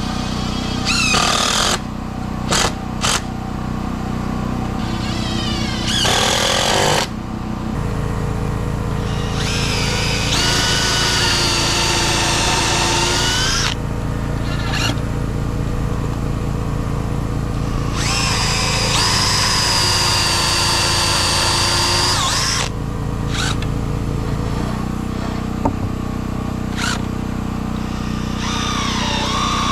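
A power drill whining in several runs, two of them long and rising in pitch as they spin up, over a steady low engine hum.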